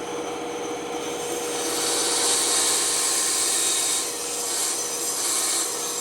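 Bandsaw running with a steady hum, its blade cutting through wood from about a second and a half in with a loud hissing rasp that eases briefly about four seconds in and again near the end.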